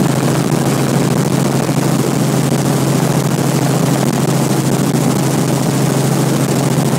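Helicopter in flight: steady engine and rotor noise with a strong low hum.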